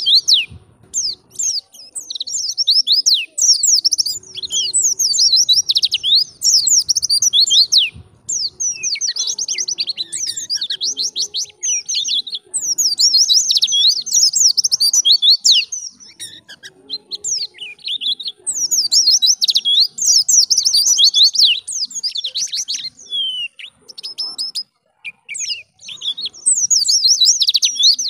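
White-eye (pleci) singing a fast, high twittering song in the wild-bird "ngalas" style, in bouts of a few seconds separated by short pauses.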